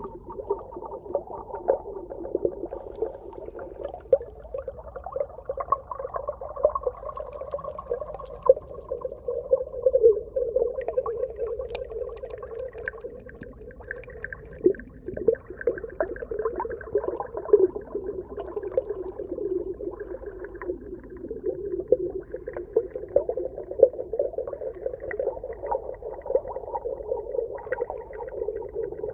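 Underwater ambience: a muffled, steady watery bubbling and gurgling, dotted with many short crackles and clicks.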